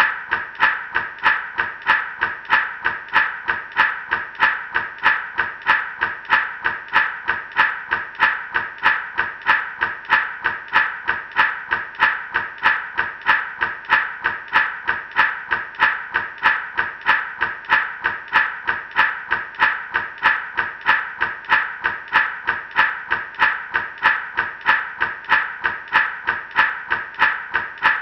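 Gourd rattle shaken in a steady, even rhythm, about two and a half shakes a second, the seeds inside rattling on each stroke.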